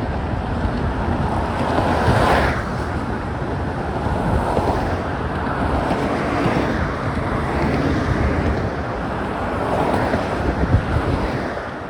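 Wind buffeting a phone microphone that is muffled by a sock, a steady low rush mixed with road traffic, swelling louder about two seconds in and again near the end.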